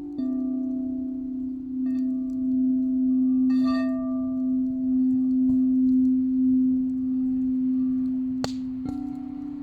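Quartz crystal singing bowl sounding one low, steady hum that swells and ebbs; near the end a slightly higher bowl tone takes over. A few light clicks sound over it, the sharpest about eight and a half seconds in.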